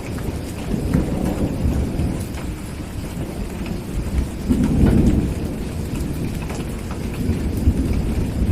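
Steady rain with thunder rumbling low, swelling about a second in and loudest around the middle before easing off, with small scattered ticks over the top.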